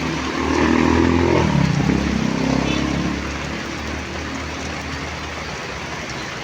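A motor vehicle's engine passes close by, swelling about half a second in and easing off after about three seconds, over the steady hiss of heavy rain.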